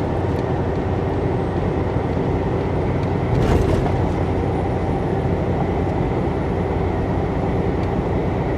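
Steady rumble of a semi truck's cab at highway speed: engine and road noise heard from inside, with a brief louder rush about three and a half seconds in.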